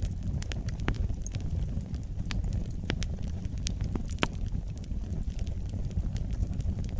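Wood fire crackling: irregular sharp pops and snaps, most of them in the first half, over a steady low rumble of the burning fire.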